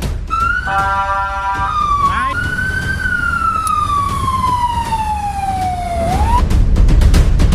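Rosenbauer fire engine's siren wailing: the pitch rises, then falls slowly over about three seconds and swings back up near the end. A steady chord of several tones sounds for about a second near the start, over a low rumble.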